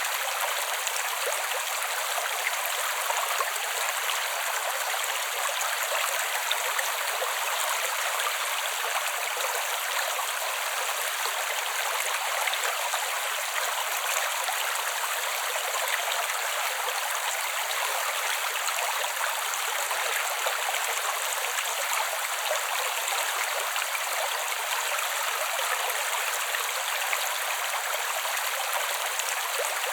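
A creek's water running and gurgling, a steady, even rush.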